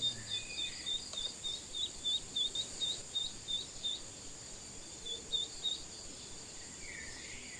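Steady insect drone, like crickets or cicadas, with a string of quick high chirps, about three a second, that break off about four seconds in and return briefly past the five-second mark.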